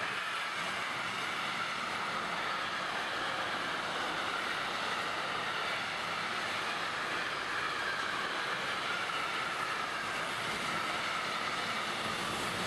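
Container freight train's flat wagons rolling past, a steady noise of wheels on rail with a faint ringing whine on top.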